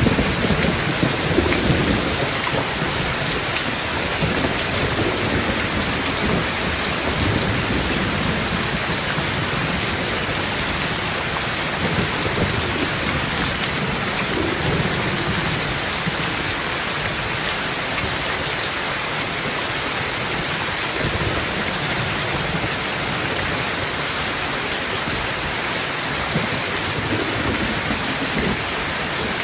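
Steady rain hissing, with low rolls of thunder rumbling under it. The thunder is loudest at the start and comes back several times more softly.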